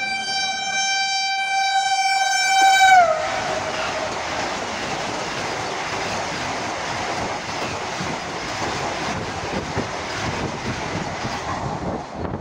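Vande Bharat Express train sounding a steady single-tone horn as it approaches at high speed. About three seconds in the horn's pitch drops as the train passes, and it gives way to the rushing and rattling of the coaches going by at speed, which cuts off suddenly near the end.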